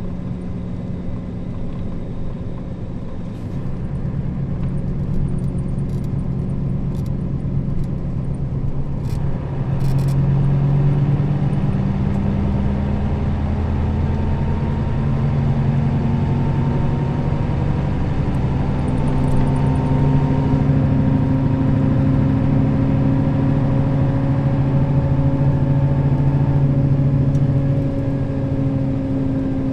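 Nissan Diesel KL-RA552RBN bus's diesel engine pulling under load: its note gets louder a few seconds in and again about ten seconds in, rises slowly in pitch, then holds steady before easing slightly near the end. A few faint clicks about nine to ten seconds in.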